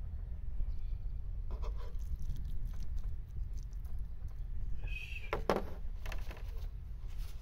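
Kitchen knife mincing raw tuna on a bamboo cutting board: scattered soft chops and scrapes, the loudest a knock about five and a half seconds in as the knife is laid down on the board. A steady low rumble runs underneath.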